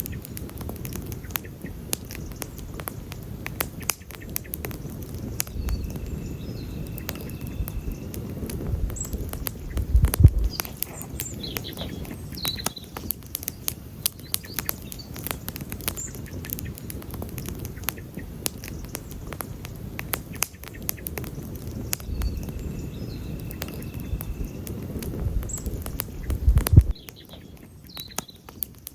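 Wood campfire crackling and popping, with a steady stream of sharp snaps over a low rumble from the flames. The rumble drops away near the end while the crackles go on. A few faint high chirps come through now and then.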